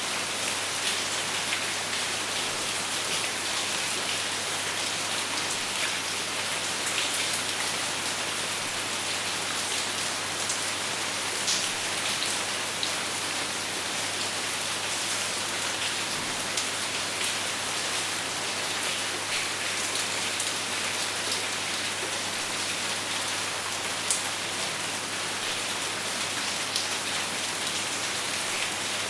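Steady rain falling on a surface, a constant hiss with scattered sharper drop ticks, with no thunder.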